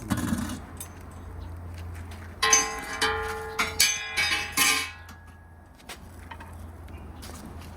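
Metal parts of a wood-fired grill oven clanking and ringing, a few strikes between about two and a half and five seconds in, as the grill and meat are handled, over a steady low hum.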